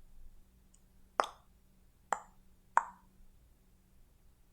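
Three short, sharp mouth pops, like tongue clicks, about a second apart.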